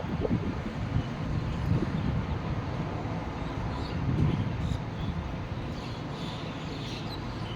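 Strong storm wind gusting, with a low rumbling buffet on the microphone that swells and eases, loudest about four seconds in.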